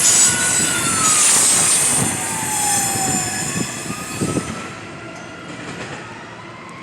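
A passing train fading away: rail noise with high, steady wheel squeals that die down over the first few seconds. Under it a distant siren wails slowly up and down.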